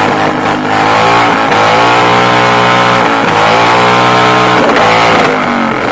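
Motorcycle engine revved hard and held at high revs, its exhaust blasting into a bonfire to fan the flames; the revs dip and climb again a few times and drop away near the end.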